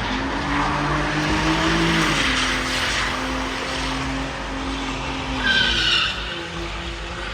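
A car spinning its tyres: the engine is held at steady high revs while the tyres screech and hiss against the pavement.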